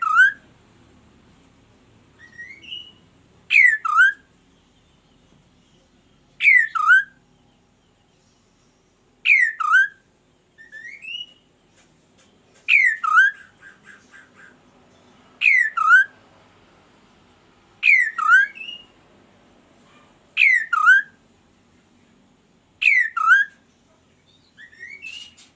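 Kaso-kaso bird calling: a loud whistled two-part call of two quickly falling notes, repeated about every two and a half to three seconds, with fainter short rising notes between the calls.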